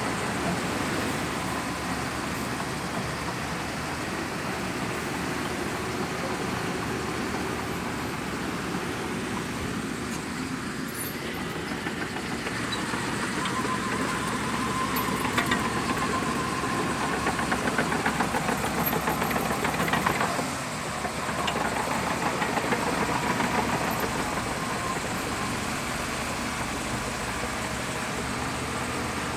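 Shantui DH17C2 bulldozer's diesel engine running steadily. About halfway through it gets louder for some ten seconds with a thin whine over it, then drops briefly.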